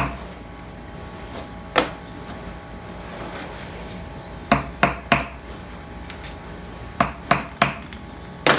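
Hammer striking metal in a series of sharp, ringing blows, about nine in all, several coming in quick runs of three.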